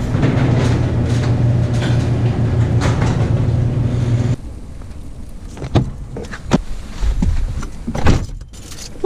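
A vehicle running with a steady low hum that cuts off abruptly about four seconds in, followed by a few sharp knocks and clicks.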